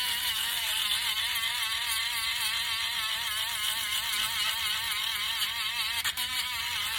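A brand-new electric sander running on wood, with a steady hiss and a wavering whine. It dips briefly about six seconds in.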